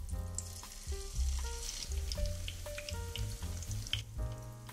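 Zucchini and tomato fritter batter sizzling and crackling in hot frying oil as spoonfuls go into the pan, over soft background music. The sizzle fades about four seconds in, leaving mostly the music.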